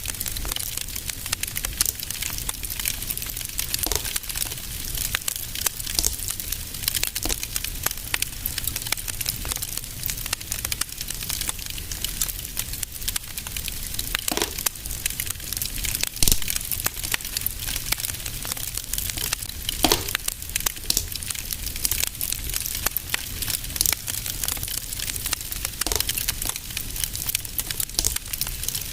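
Fireplace fire crackling steadily, with a few louder pops midway through.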